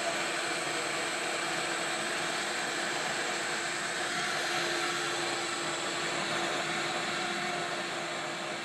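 A motor-driven air blower, such as a shop vacuum or fan, running steadily: an even airy rush with a faint steady hum.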